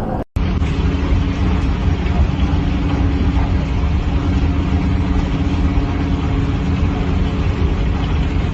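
Steady car engine and road noise with a low hum, holding level with no impacts; it begins after a brief dropout a fraction of a second in.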